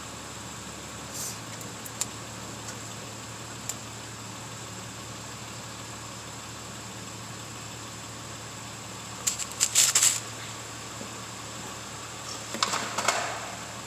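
Steady background hum with a few light clicks, then two short bursts of metal rattling and rubbing about nine seconds in and near the end: freshly greased brake caliper slide pins being worked in and out to free them.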